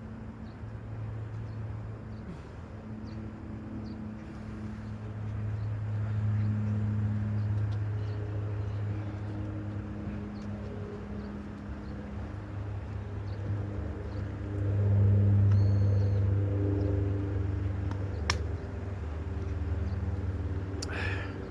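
A motor vehicle's engine running nearby, a steady low hum that swells louder about 15 seconds in, with faint outdoor birdsong.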